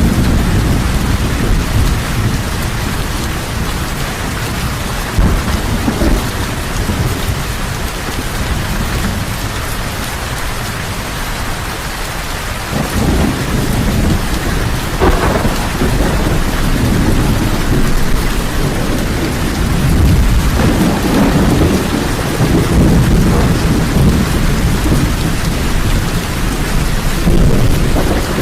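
Heavy rain falling steadily, with rolling thunder rumbling underneath and swelling louder about halfway through.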